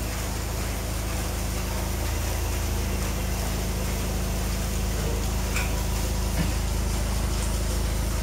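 VW Tiguan 2.0 turbocharged four-cylinder idling steadily through an aftermarket exhaust: downpipe with metal catalytic converter, mid pipe and transverse quad-outlet muffler. The tone is a low, even hum.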